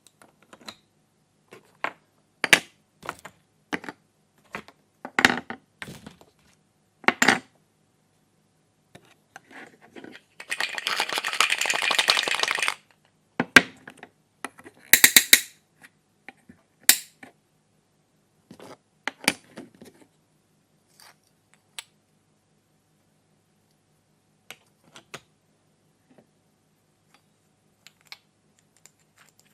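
Plastic toy pieces being handled: scattered clicks and knocks, with a dense rattling crackle for about two seconds near the middle, then only a few faint taps.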